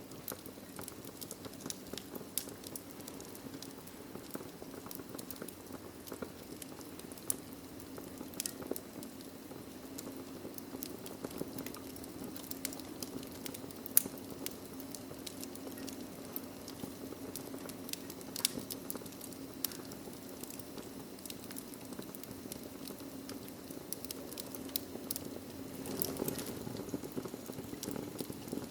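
Wood fire in a fireplace crackling, with scattered sharp pops over a steady low hum of burning; the loudest pop comes about halfway through.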